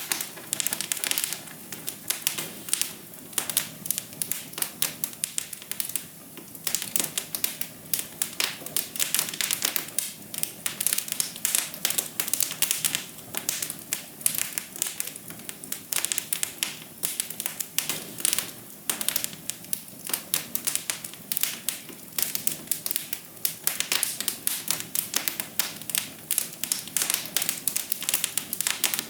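Wood fire crackling in a fireplace: a dense, irregular run of sharp crackles and pops over a soft hiss.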